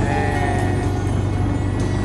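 Sightseeing boat's engine running with a steady low rumble, with music playing over it and a brief wavering pitched sound in the first half second.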